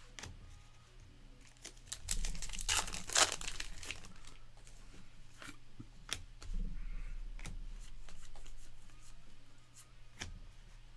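Foil wrapper of a Topps Heritage baseball card pack being torn open and crinkled, in two noisy spells, one about two seconds in and one past the middle, with light clicks and rustles in between.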